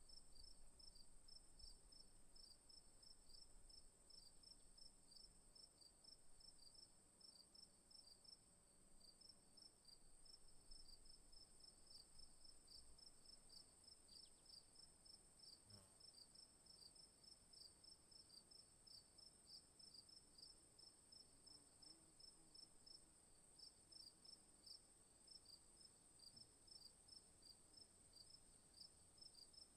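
Faint chorus of night insects: a steady high-pitched drone with crickets chirping in quick, regular pulses over it. A single faint click comes a little past halfway.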